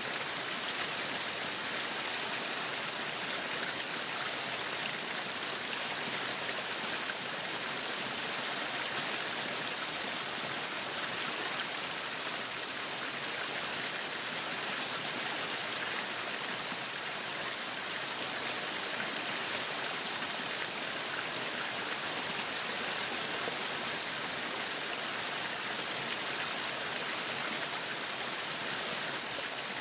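Meat sizzling on a yakiniku grill: a steady, even, crackling hiss.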